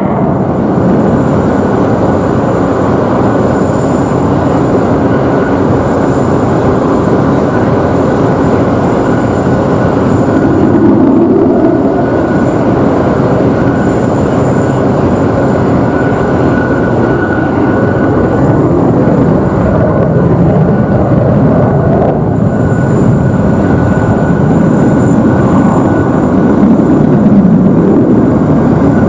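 Boeing F-15QA fighter's twin jet engines roaring loudly and continuously during a display flight, the roar swelling and easing as the jet moves through its manoeuvres.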